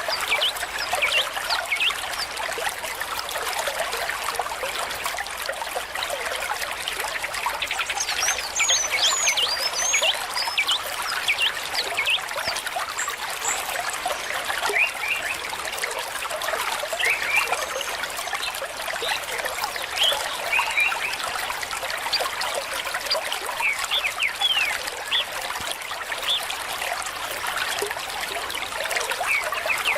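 Small stream trickling and babbling steadily, with many quick high plinks and gurgles of running water.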